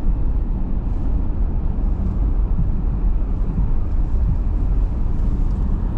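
Steady low rumble of a car driving, engine and road noise without change.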